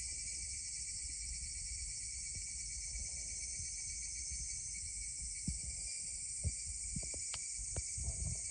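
Wood bonfire crackling, with a few sharp pops in the second half, under a steady high-pitched chorus of insects.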